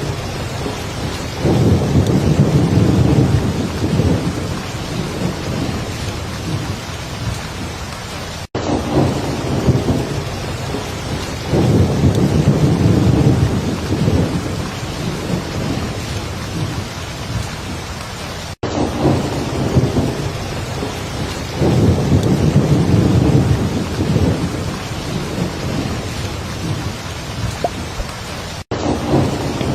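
Heavy rain falling steadily, with a deep rumble of thunder swelling up three times. The pattern repeats about every ten seconds, with a brief dropout just before each repeat.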